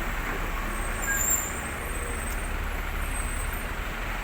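Heavy truck engine running amid road traffic noise, with a low steady rumble. A brief high squeal comes about a second in.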